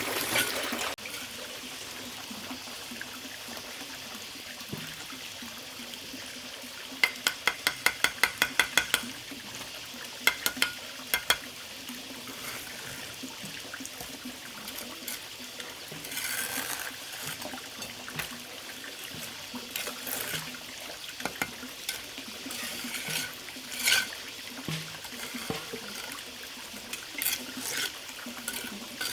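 Steady running water, with a quick run of about a dozen sharp taps about seven seconds in and a few more clicks shortly after.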